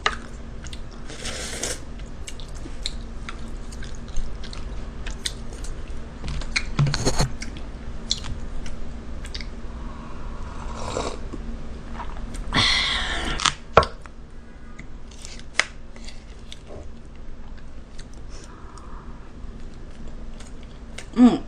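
Close-miked chewing of jjajang fried rice, with many small wet mouth clicks and a few louder hissy mouth noises about 1, 7, 11 and 13 seconds in.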